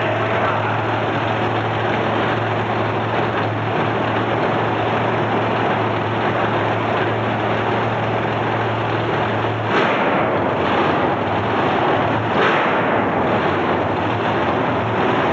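Loud, distorted engine noise from a racing truck at full throttle, a dense unbroken racket with two sudden harsher surges about ten and twelve and a half seconds in.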